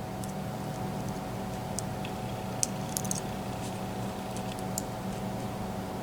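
Light, scattered clicks of small metal lock parts (the MT5+'s sliders and pins) being handled, over a steady low hum.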